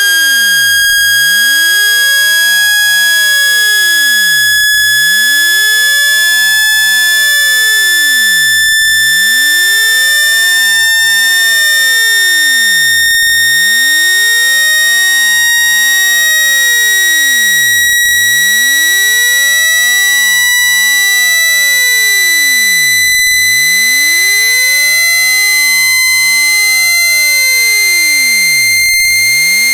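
Synthetic water-eject tone for clearing a phone speaker: one loud, steady electronic pure tone climbing slowly in pitch, with fainter higher overtones.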